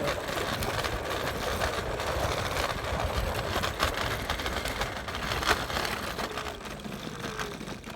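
Bird electric rental scooter in motion: a steady rumble of its wheels on the road and noise over the phone's microphone, with a few brief knocks.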